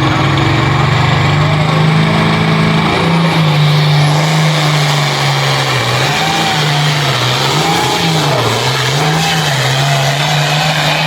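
International 1466 pulling tractor's engine running hard and loud, with a steady pitch that dips and recovers several times as it works.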